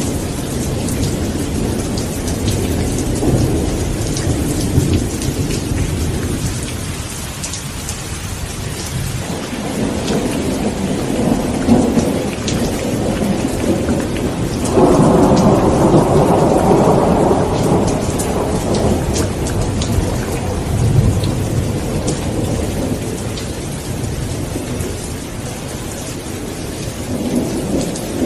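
Steady heavy rain with rolling thunder. The rumbles swell and fade several times, and the loudest peal breaks in suddenly about halfway through and rolls on for a few seconds.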